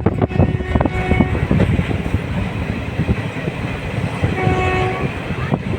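Train running along the track: a steady rumble with wheel clicks over the rail joints, and two short pitched tones, one about a second in and one near the end.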